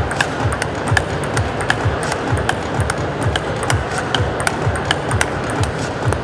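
Table tennis ball clicking off bats and table in a quick warm-up rally, irregular sharp taps, over arena music with a steady thumping beat.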